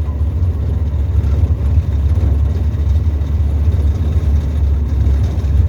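Tecnam ultralight's piston engine running steadily, heard from inside the cockpit as a loud, even low drone.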